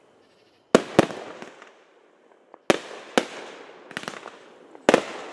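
Fireworks going off: a series of sharp bangs, several coming in quick pairs, each fading away over about a second.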